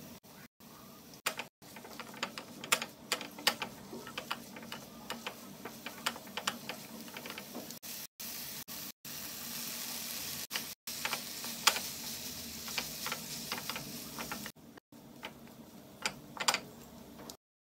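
Onions and capsicum sizzling in a ceramic-coated frying pan while a spatula stirs them, with many sharp clicks of the spatula against the pan. The hiss swells louder about ten seconds in, and the sound cuts off suddenly near the end.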